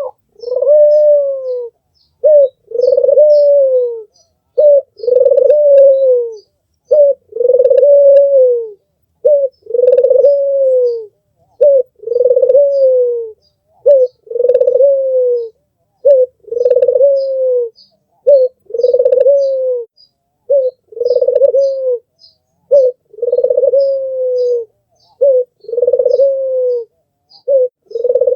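Albino puter (domestic collared dove) cooing over and over: a short note followed by a long, slightly falling coo, repeating about every two seconds. Faint high chirps sound behind it.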